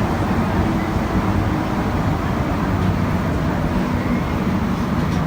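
Azur MPM-10 rubber-tyred metro train running, a steady rumble with a faint low hum.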